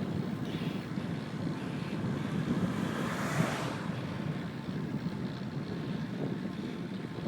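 Wind rushing over the camera microphone of a moving bicycle, a steady low rumble with a brief swell of hiss about halfway through.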